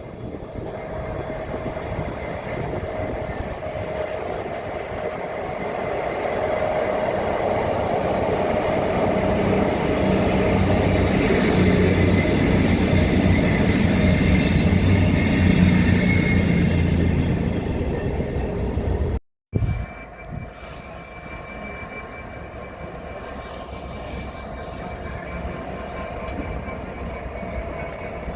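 A train passing on the railway. Its rumble builds to a peak and begins to ease, with high steady tones over it. After an abrupt cut comes a quieter, steadier train sound, again with thin high tones.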